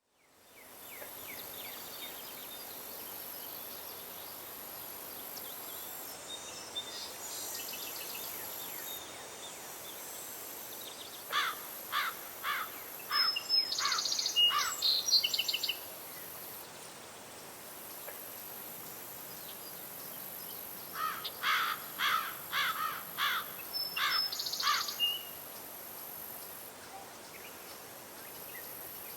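Outdoor ambience with a steady high insect buzz. A bird sings twice, about 11 s and 21 s in, each phrase a run of five or six quick repeated notes with higher chirps mixed in.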